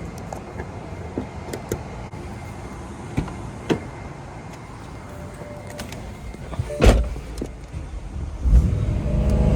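Car engine idling, a low steady rumble, with scattered clicks and a loud thump about seven seconds in.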